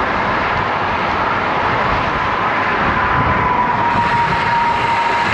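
Strong wind rushing over the microphone of a moving road bike, with a steady high hum that sinks slightly in pitch about three seconds in.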